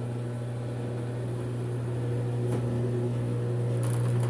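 Brastemp 5 kg washing machine running in its spin stage, its motor giving a steady hum that grows slightly louder near the end.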